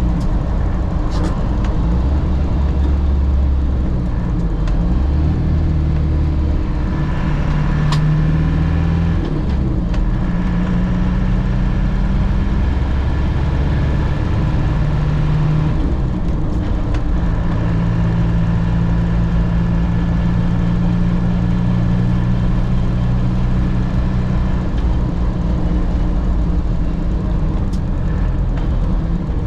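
1998 Land Rover Defender heard from inside the cabin while driving: steady engine and road noise, with the engine note changing pitch several times as it is taken through the gears.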